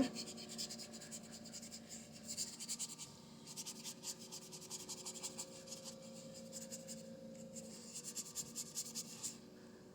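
Paintbrush scrubbing acrylic paint onto a canvas in quick, repeated short strokes, a faint scratchy brushing that comes in runs over a low steady hum.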